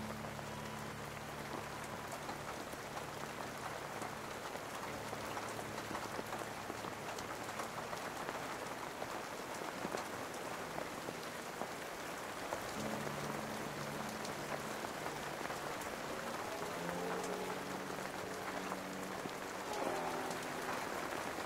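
Steady rain hiss within an ambient music track, with low sustained notes fading in and out, briefly at the start, again about two-thirds in and near the end.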